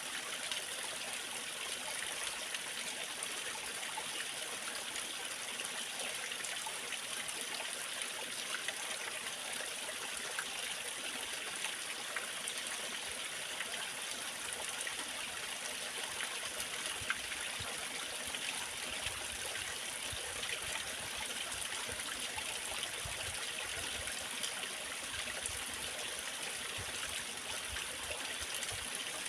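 Waterfall: water rushing and splashing steadily as an even, unbroken hiss, with small splashes flickering through it.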